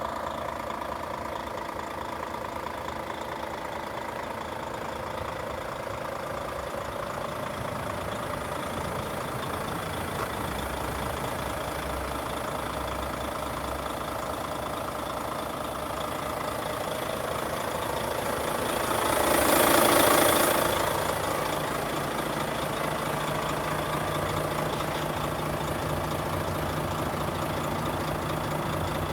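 A Volvo FH4 500 tractor unit's 13-litre straight-six diesel idling steadily. About two-thirds of the way through, a loud rushing noise swells and fades within a couple of seconds.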